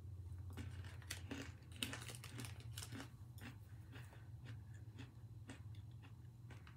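Crisp Okinawan black-sugar sable butter cookie being chewed: crunchy crackles, densest a second or two in, then slower and sparser as it is chewed down.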